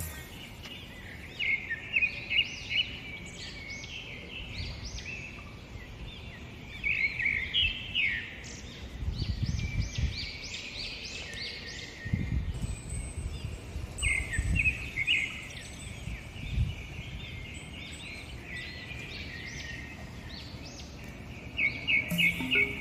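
Small birds chirping and singing in quick repeated phrases, in several clusters, with low rumbles now and then.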